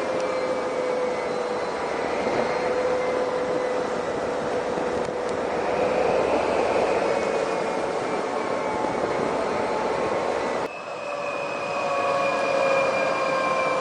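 SNCF BB 68540 diesel locomotive's engine running hard, a whine of several tones over the engine noise sinking slowly in pitch. About eleven seconds in it dips briefly, then comes back higher and sinks slowly again.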